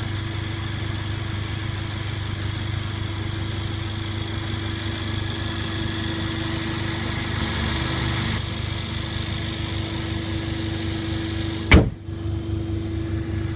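The turbocharged 2-litre inline-four of a 2014 Mercedes CLA45 AMG idling steadily. Near the end comes a single loud slam, the hood being shut, after which the engine sounds more muffled.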